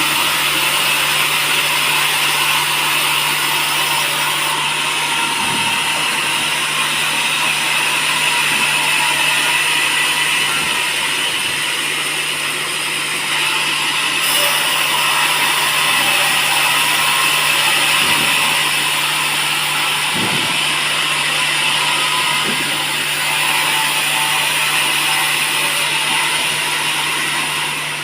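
Sawmill saw running steadily over teak wood: a continuous loud hiss over a steady low hum, with a few faint knocks.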